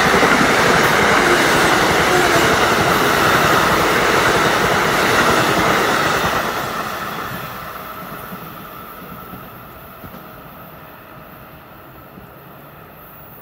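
Passenger train passing close by at speed: a loud steady rush of wheels on rail that fades away from about six seconds in as the last cars go by.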